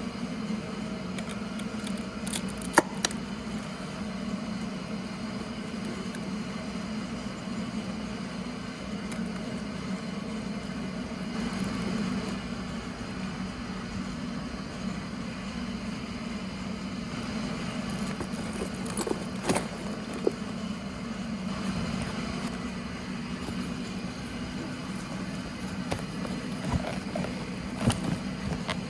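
Honda CB1300SF's inline-four engine running at a steady speed, with a few brief clicks, one about three seconds in, one near the middle and one near the end.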